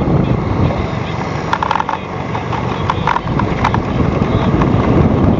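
Steady low rumble on a small fishing boat, from engine, wind and water, with a few short knocks about a second and a half in, around three seconds and near four seconds.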